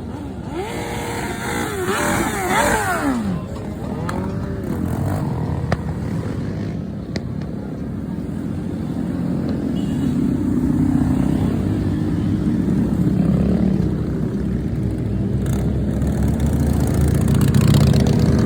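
A large group of motorcycles riding by: engines revving up and down in the first few seconds, then a steady low rumble of many engines that climbs in pitch near the end as they speed up.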